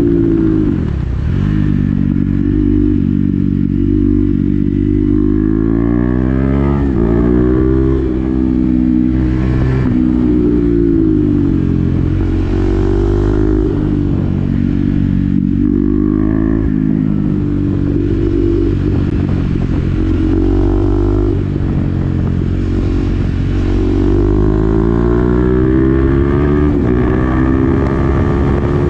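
KTM Duke 390's single-cylinder engine through an SC-Project exhaust with the dB-killer fitted, pulling hard under way. Its pitch climbs repeatedly, then drops back sharply at each gear change or roll-off, several times over.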